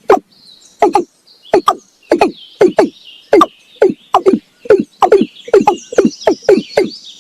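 Male watercock giving its deep, hollow breeding-season call: a series of short notes, each dropping in pitch, that speeds up toward the end. A fainter, higher twittering runs beneath it.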